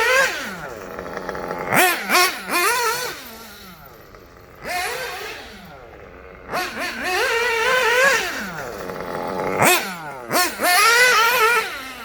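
Kyosho Inferno Neo 2.0 1/8 nitro buggy's stock engine, exhausting through a Dynamite 053 tuned pipe, revving in repeated bursts as it drives. The pitch climbs on each blip of throttle and falls away between them.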